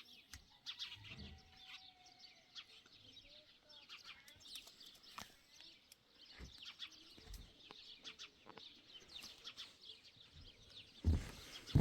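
Birds chirping in many short, scattered high calls, with a few soft knocks. A louder bump comes near the end.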